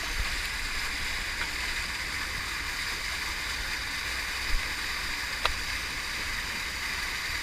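Steady rush of a waterfall pouring into a pool, with a single faint click about five and a half seconds in.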